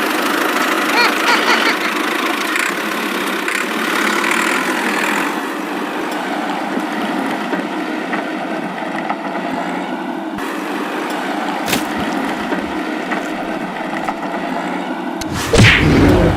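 A small motor running steadily, with a sharp click about twelve seconds in and a louder burst of noise just before the end.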